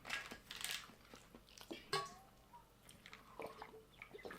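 Close-up mouth sounds of someone chewing a crunchy, juicy barbecue chicken sandwich: faint, irregular crunches and wet smacks, with a brief mouth sound about two seconds in.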